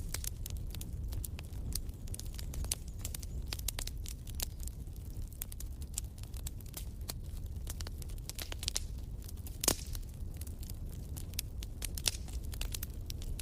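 Wood fire in a fireplace crackling, with irregular sharp pops over a steady low rumble of burning. One pop about three-quarters of the way through is clearly louder than the rest.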